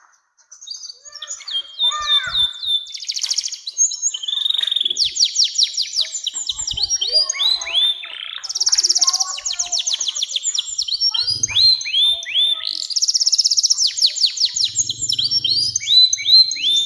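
Domestic canary singing a long, unbroken song of fast rolling trills and rapid repeated chirps, high-pitched. Dense buzzing rolls alternate with quicker sweeping note series. The song starts about a second in.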